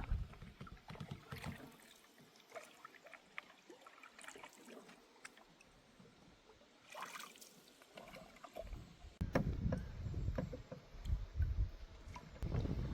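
Water splashing and lapping around a canoe, with scattered small knocks, and wind rumbling on the microphone from about two-thirds of the way in.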